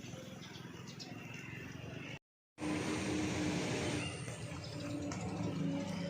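A vehicle engine running steadily amid outdoor background noise. It breaks off abruptly about two seconds in and comes back louder.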